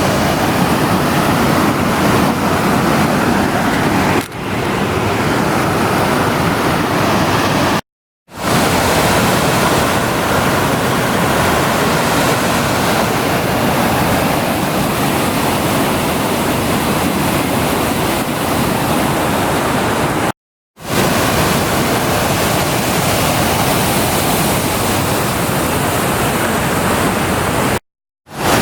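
Waterfall and creek water rushing, a steady, loud, even wash of sound, cut off abruptly by brief silent breaks about eight and twenty seconds in and again near the end.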